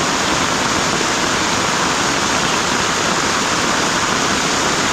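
Heavy rain pouring down in a storm, a loud, steady hiss.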